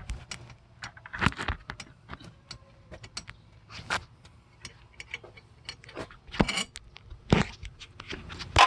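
Irregular metallic clinks, taps and knocks, a few of them louder near the end, from hand tools and bolts being handled against metal on a truck.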